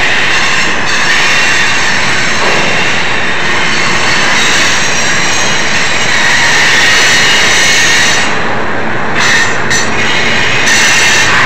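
Double-stack intermodal freight cars of a Union Pacific train rolling past: a loud, continuous rumble and clatter of steel wheels on rail, with a steady high-pitched tone running over it.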